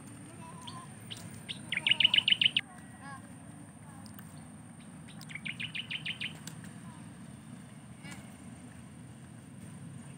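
A bird calling twice: two quick trills of evenly spaced high chirps, each about a second long, a few seconds apart, over a steady low background rumble.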